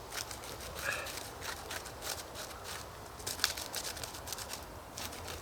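Knife blade scraping silver birch bark into fine tinder shavings: a run of short, irregular scrapes, one sharper about three and a half seconds in.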